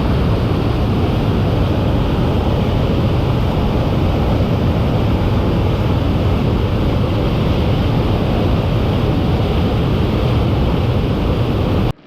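Steady, loud rush of fast-flowing water, cutting off abruptly near the end.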